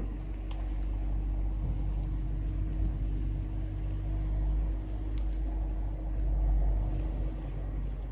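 A steady low rumble with a hum running through it, like a running engine, swelling about six seconds in, with a few faint high chirps over it.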